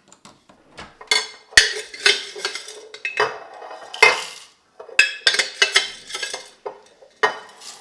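Metal spoon and dishware clinking and scraping in an irregular run of sharp clinks with short rings, as in preparing coffee.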